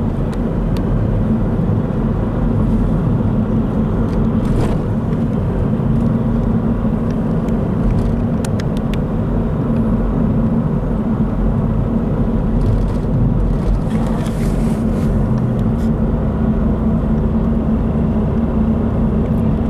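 Steady road and engine noise inside a moving car's cabin: a constant low drone.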